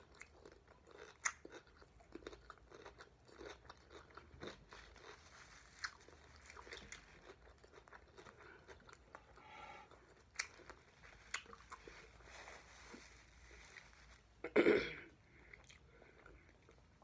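Close-miked mouth sounds of a person chewing a mouthful of cucumber: faint crunches and wet clicks, with one louder sound about fourteen and a half seconds in.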